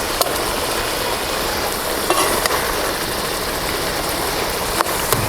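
Chicken roast sauce sizzling steadily in the pot, with a few short clinks of a spoon as it is stirred.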